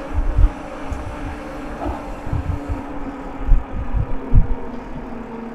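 Wind buffeting the microphone in irregular low thumps during a fast bicycle ride on pavement, over a steady low hum.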